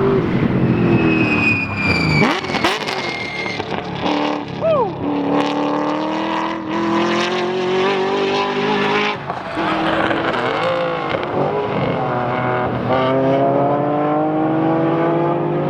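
A 7-liter V8 race car accelerating hard on track, its engine note climbing and dropping back at each upshift. A brief high squeal sounds about a second in.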